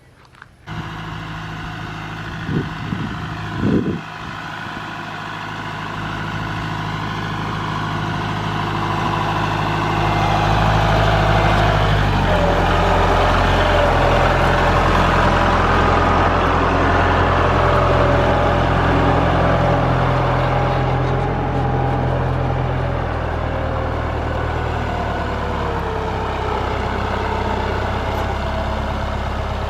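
A vehicle engine running steadily, starting abruptly under a second in, with two short knocks in the first few seconds and a shift in engine pitch about twelve seconds in.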